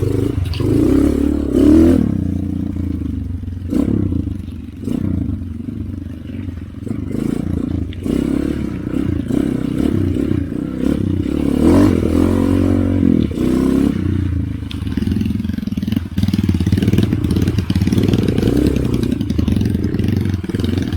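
Motorcycle engine running with rising and falling revs as it rides a muddy trail, with repeated knocks and rattles.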